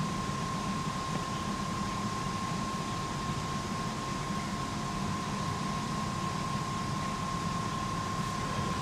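Steady hum and hiss of a large building's background, with a thin, unwavering high whine running through it; it does not change.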